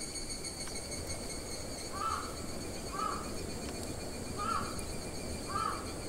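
A bird calling four times, short arched calls roughly a second apart, over a faint steady high-pitched hum.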